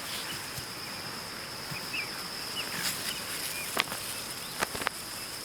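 Outdoor bush ambience: a steady high insect drone, with short bird chirps scattered through it and a few sharp clicks about four and five seconds in.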